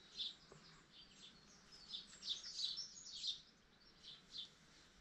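Faint birdsong: a small bird's short, high chirps repeated every half second or so, with a busier run of notes in the middle.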